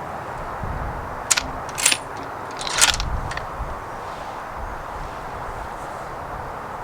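Rifle bolt being worked just after a shot: a few sharp metallic clicks and scrapes, with the spent casing being ejected and a fresh round chambered in the .300 Win Mag.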